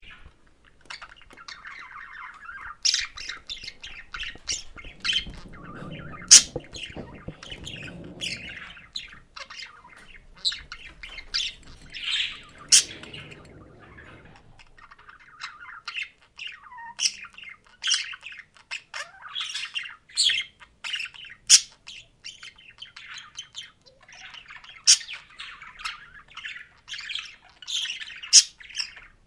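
Budgerigars warbling and chattering steadily, the soft twittering run through with frequent sharp, high chirps and squawks.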